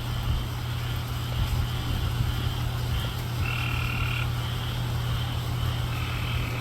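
A chorus of frogs calling: drawn-out high-pitched calls that start and stop every second or so, over a steady low rumble.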